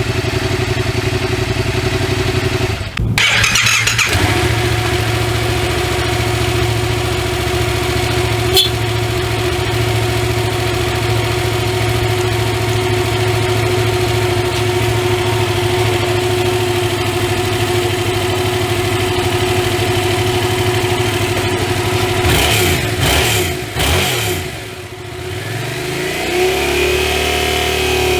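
Yamaha MT-07's 688 cc two-cylinder four-stroke engine running at a steady idle. It breaks off briefly about three seconds in and picks up again. Near the end its speed changes and dips, then settles at a higher idle.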